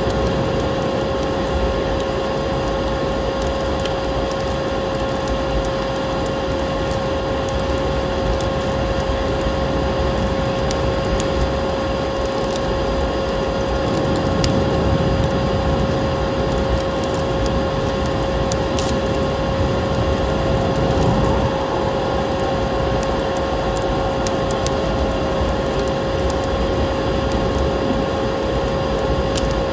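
Vacuum cleaner running steadily with a constant whine over its rushing airflow, mixed with the scattered sharp crackles of a wood fire.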